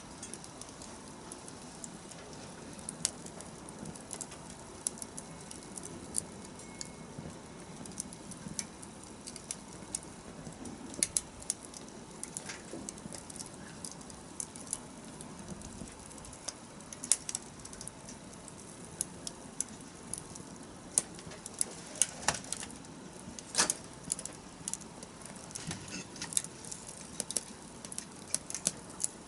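Wood fire crackling: irregular sharp pops and snaps, some loud, over a low steady hiss of burning, with the pops coming thicker near the end.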